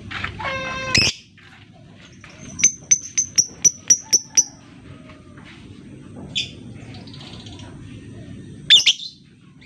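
Lovebird calling. It opens with a harsh, harmonic-rich shriek lasting about a second. A couple of seconds in comes a rapid run of about eight sharp, high ticks, some four a second: the ticking chatter that lovebird keepers call ngetik. A short loud chirp sounds near the end.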